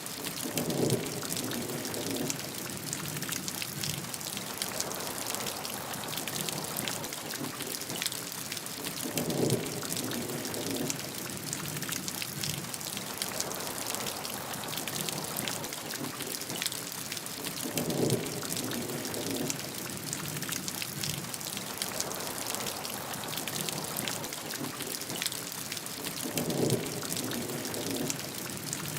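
Steady rainfall with dense pattering drops. A short, deeper swell of sound rises out of it four times, about every eight and a half seconds.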